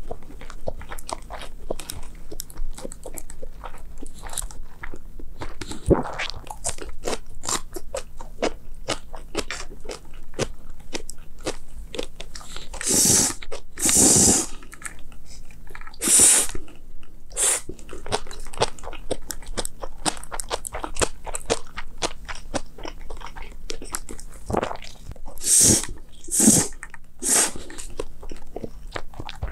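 Close-miked eating of bibim noodles with crunchy toppings such as cucumber, apple and kimchi: a steady run of small wet chewing and crunching clicks, broken by a few louder, longer noisy bursts about halfway through and near the end.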